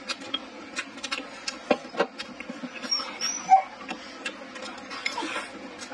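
Close-miked chewing and lip-smacking: wet mouth clicks several times a second, with a brief squeaky sound about halfway through.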